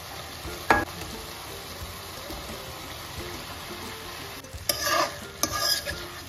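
Raw chicken pieces added to hot oil and masala in a kadai, sizzling softly, then stirred in with a metal spatula. The stirring gives louder sizzling and scraping near the end. There is a single sharp tap under a second in. This is the stage where the meat goes in once the oil has separated from the masala.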